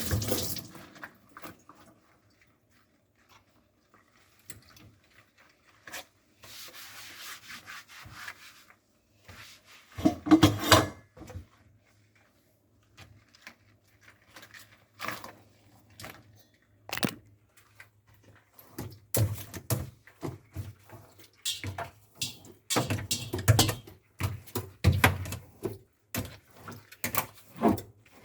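Dishwashing sounds: the tap shuts off at the start, then irregular rubbing and scraping with short knocks and clatters as dishes are handled, loudest about ten seconds in and busier in the last third.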